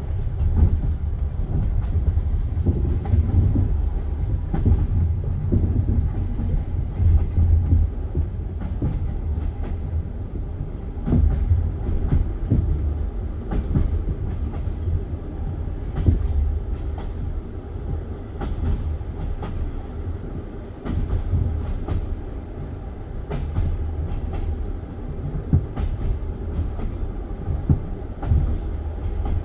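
Passenger train carriage rolling along the track: a steady low rumble of the wheels and bogies, with irregular sharp clicks and knocks as the wheels cross rail joints and points.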